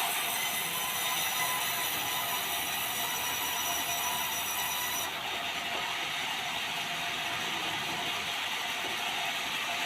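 Sawmill saw cutting white meranti timber: a steady, dense mechanical noise whose upper hiss changes abruptly about five seconds in.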